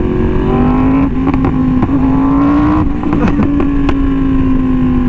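Yamaha R1M's crossplane inline-four through an SC Project aftermarket exhaust, cruising at steady revs: the pitch rises a little in the first second, holds, then eases off slightly near the end. Wind buffets the microphone underneath.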